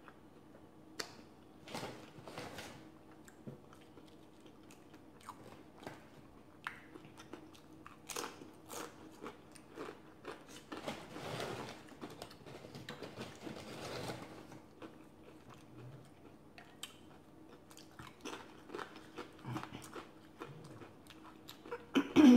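A person chewing and biting a beer-battered cod taco, with crunches from the fried batter and wet mouth sounds. The sounds come in short bouts with pauses and are busiest about halfway through.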